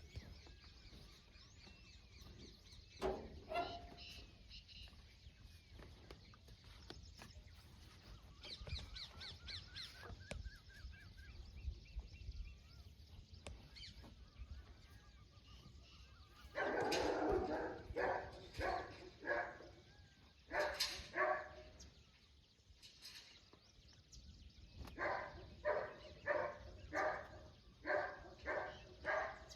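An animal giving short, repeated barking calls in two runs, about two a second, the first beginning a little past the middle and the second near the end.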